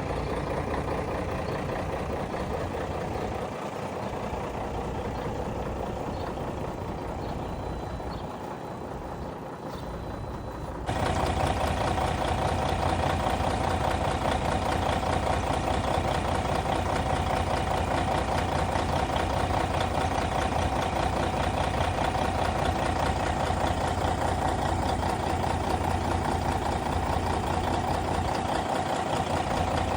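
Scania K112 bus's rear-mounted 11-litre six-cylinder diesel engine running steadily. About 11 seconds in, the sound jumps suddenly louder, with a strong steady whine over the engine's low drone.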